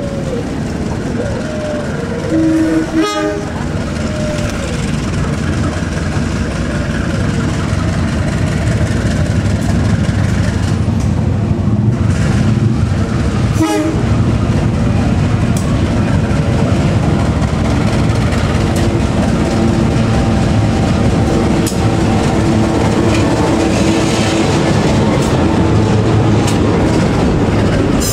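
Diesel freight locomotive running slowly, its engine drone growing louder as it comes closer, with short horn blasts about three seconds in and again near the middle. Container wagons then roll past close by, their wheels clattering on the rails.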